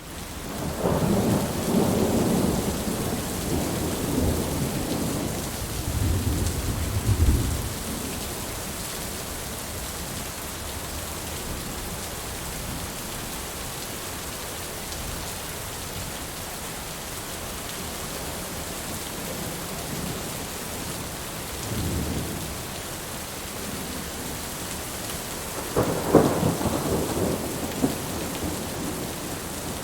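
Steady rain with rolling thunder: a long rumble over the first few seconds, another around seven seconds in, a short one a little before the end, and the loudest peal near the end.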